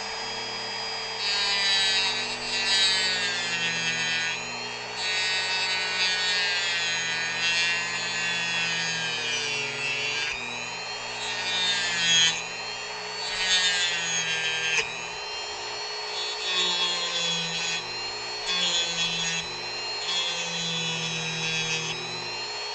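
Dremel rotary tool whining as it cuts into wood, in repeated passes of a second or two. The pitch dips and wavers as the bit loads up against the wood.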